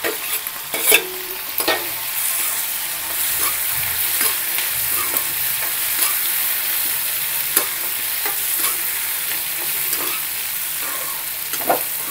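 Paneer, capsicum and onion frying in hot oil with soy sauce and chilli, sizzling steadily while being stirred, with the spatula knocking and scraping against the pan now and then.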